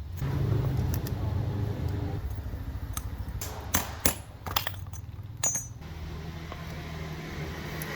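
A steady low motor hum, with several sharp clicks and knocks about halfway through.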